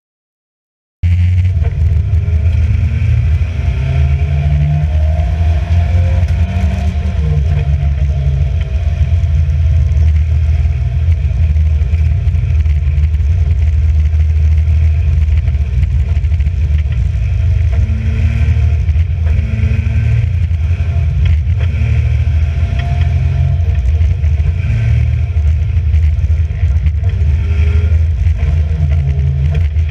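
Alfa Romeo Giulia race car's engine running hard on track, its pitch rising and falling, starting abruptly about a second in.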